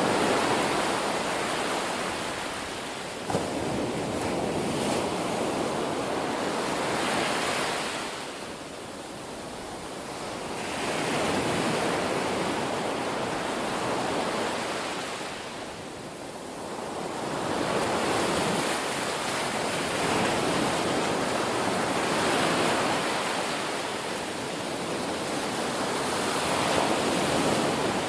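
Ocean surf: waves breaking and washing in, a continuous rush that swells and falls back every several seconds, with one brief click about three seconds in.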